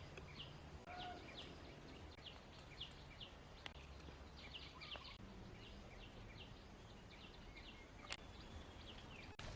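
Faint outdoor ambience with many short, high chirps scattered irregularly, typical of small birds calling, plus a few lower whistled notes and a couple of sharp clicks.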